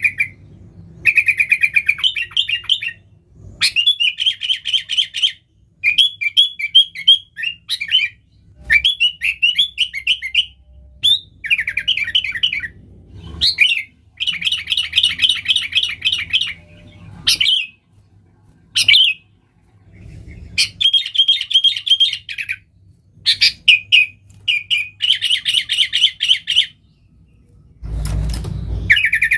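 Sooty-headed bulbul (kutilang) singing vigorously: repeated bursts of fast, bright chirping phrases, each a second or two long, with short pauses between.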